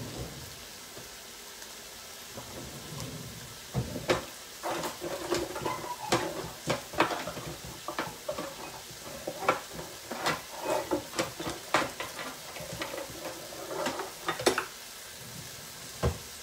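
Chopped onions and spring onions sizzling steadily in a stainless steel sauté pan as they brown. Many short clicks and clatters come through the middle stretch.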